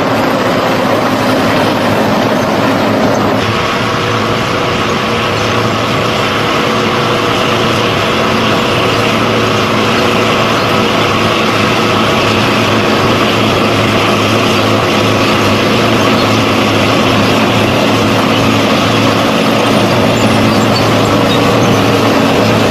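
Heavy tractor's diesel engine running steadily under load. Its sound shifts suddenly about three seconds in, then holds steady.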